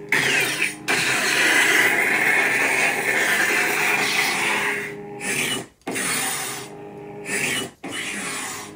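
Lightsaber sound font "The White" playing from a saber soundboard: a steady low hum with loud whooshing swing sounds, one long swell about a second in and two shorter ones near the end, each cut by a brief sudden dropout.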